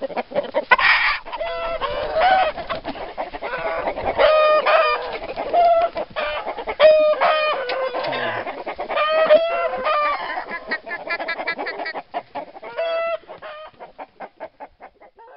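Chicken clucking: a string of short pitched calls, then a fast run of quieter clucks that fades out over the last few seconds.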